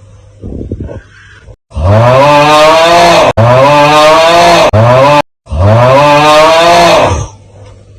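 The 'Aauuggh' meme: a man's loud, drawn-out yell, looped back to back from about two to seven seconds in. Each repeat starts with a rise in pitch.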